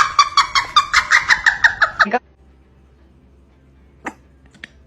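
An animal's rapid run of short, high-pitched calls, about eight a second, that cuts off suddenly about two seconds in. Near quiet follows, with two faint clicks.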